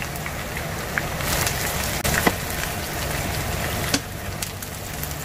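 Sliced eggplant shallow-frying in oil heated to about 180 °C in a frying pan: a steady sizzle with crackling spatter and a few sharp clicks.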